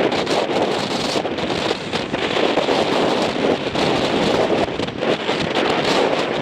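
Strong, gusty wind buffeting the microphone: a loud, rough rumble and hiss that swells and dips with each gust.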